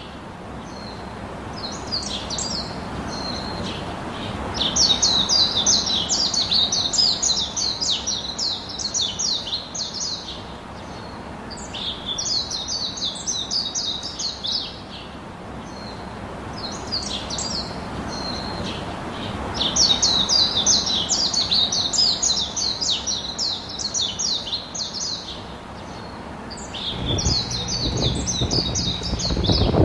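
Birds singing: rapid, high chirping in repeated phrases of a few seconds each, with short pauses between. A low rumbling noise comes in near the end.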